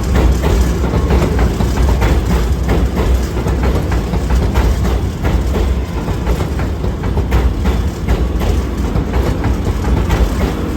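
NYC Subway R211A car running at speed, a heavy steady rumble with rapid clicking of the wheels over rail joints.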